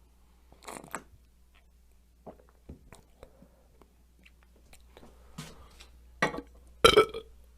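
A person drinking: a string of short wet mouth sounds, sips and swallows a second or two apart. The loudest gulp comes near the end.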